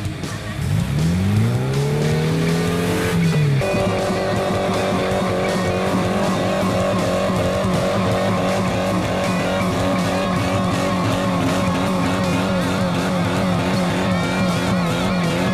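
Off-road 4x4 engine revving up and dropping back, then from about three and a half seconds in, loud music with sustained, wavering electric-guitar-like notes.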